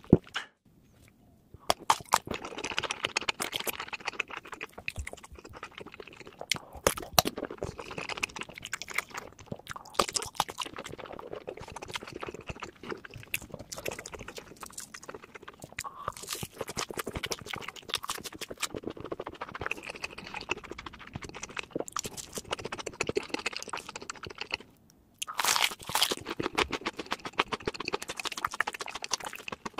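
Close-miked chewing and biting of crunchy food: dense, irregular crunches and crackles, with a short break about 25 seconds in.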